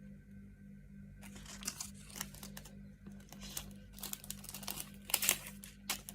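Packaging crinkling and tearing as a parcel is unwrapped by hand, in irregular rustling bursts that start about a second in and are loudest near the end.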